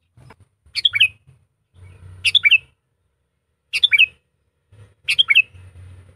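Sooty-headed bulbul (kutilang) calling: four short, bright phrases about a second and a half apart.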